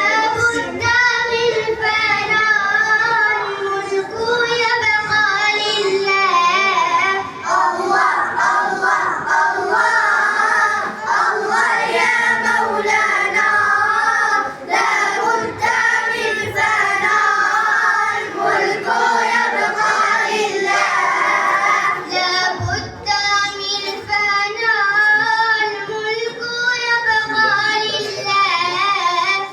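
A child singing solo with a wavering, richly ornamented melody, pausing briefly for breath every few seconds.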